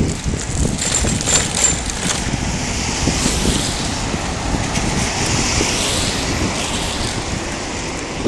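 Wind buffeting the microphone on a moving bicycle, a steady low rumble over a rushing hiss, with a few faint clicks about a second in.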